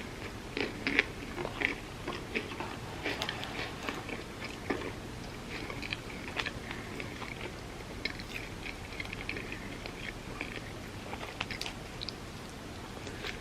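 A person biting and chewing crunchy food close to the microphone, with a run of crisp crunches and softer wet chewing in between. The loudest crunches come in the first couple of seconds.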